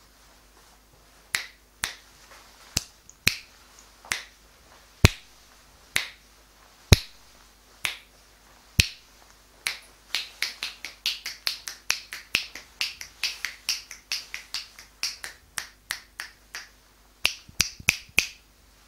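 Finger snaps: sharp single snaps about a second apart at first, then a quicker run of several a second from about halfway through, a short pause, and a few more snaps near the end.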